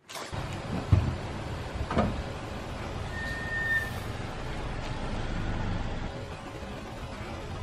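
Car running slowly with a low engine rumble, with two sharp cracks about one and two seconds in, as of an object giving way under a tyre. A brief thin, high steady tone comes near the middle.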